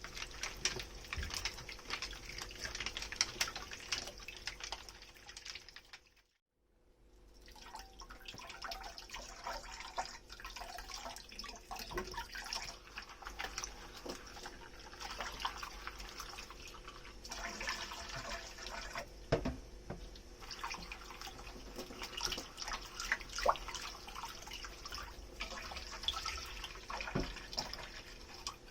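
Dishes being hand-washed at a kitchen sink: tap water running and splashing, with small clinks and knocks of crockery throughout. The sound cuts out completely for about half a second just after six seconds in.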